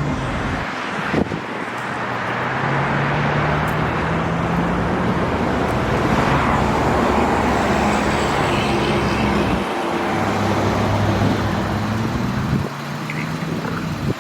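Road and engine noise inside a moving car: a steady rush with a low engine hum that shifts in pitch, and a sharp click about a second in.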